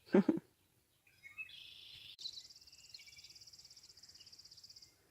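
A brief loud knock or bump right at the start, then birds chirping, followed by a long high, rapid trill lasting a few seconds.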